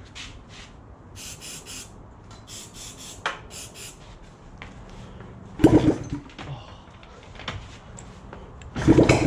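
Aerosol starting fluid hissing in short bursts into the intakes of a Honda CB250 engine that hasn't run in over 30 years. The engine then fires briefly with two loud pops, about halfway through and near the end: "pop, pop, bang".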